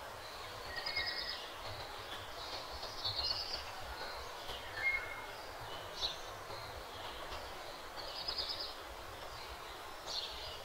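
Outdoor ambience: small birds chirping and trilling in short calls every second or two, over a steady low rumble.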